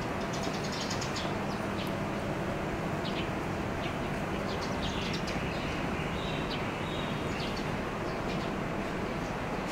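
Small birds chirping in short, scattered calls over a steady background rumble of outdoor ambience.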